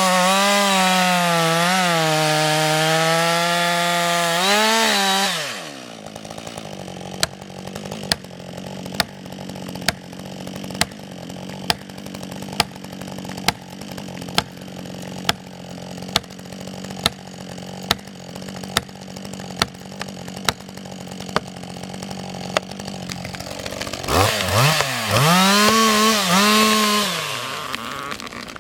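Husqvarna chainsaw at full throttle, its engine pitch dipping and recovering under load as it cuts. After about five seconds it drops back to a quieter idle with a sharp tick roughly once a second. Near the end it revs up and cuts again for a few seconds.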